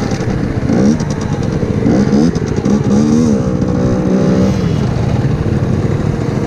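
Small 50cc two-stroke dirt bike engines revving up and dropping back several times as they ride, the pitch climbing and falling again between about one and four and a half seconds in.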